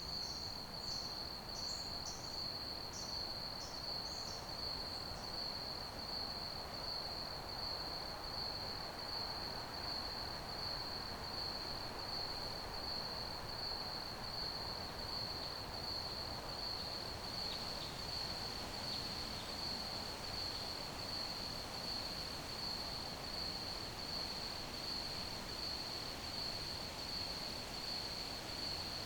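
Crickets chirping in a steady, continuous high trill over a soft background hiss. In the first few seconds a higher chirp repeats about twice a second, and a few fainter chirps come in near the middle.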